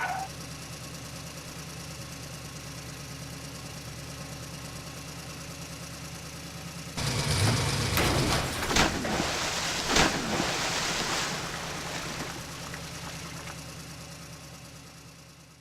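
Steady engine idling sound, joined about seven seconds in by a louder clattering noise with sharp clicks, then fading away near the end.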